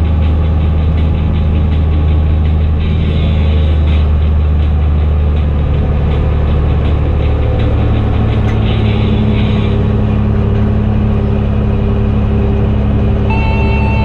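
Fendt Favorit 926 Vario tractor's six-cylinder diesel running steadily through an open exhaust, its note shifting slightly about halfway through.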